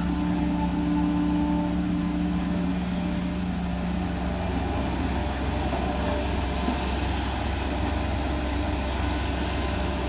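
Kobelco SK140 excavator's diesel engine running steadily under working load, with a few faint whining tones over the low drone during the first few seconds.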